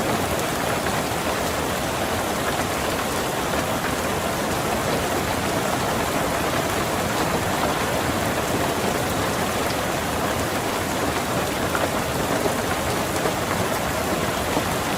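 Steady rain falling on a car, an even dense patter without thunder.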